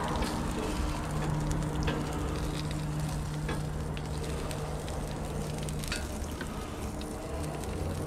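Onion wedges and sausages sizzling steadily on a gas grill's griddle plate, with a few light clicks of metal tongs turning the food.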